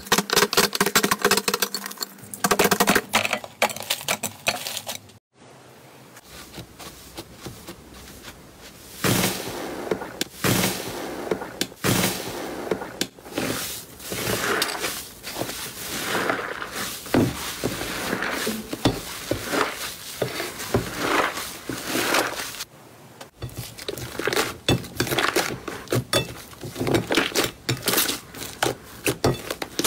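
Slime being handled by hand in a string of short clips: dense crackling and clicking for the first few seconds, then irregular squishes, pops and crackles. Short breaks come where the clips change.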